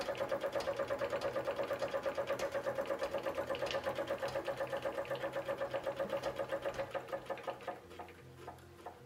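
1890s Willcox & Gibbs chain-stitch sewing machine stitching fabric: a steady rapid clatter of about eight stitches a second that slows and stops near the end, followed by a few single clicks.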